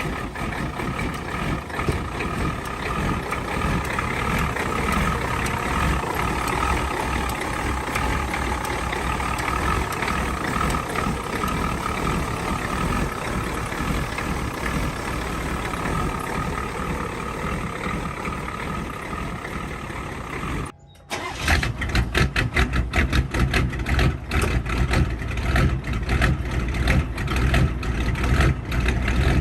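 Cold start of a built, naturally aspirated 1994 Ford 7.3 IDI diesel that has sat all winter: the engine turning over and running, with a harsher, rapid rhythmic clatter after a cut about twenty seconds in.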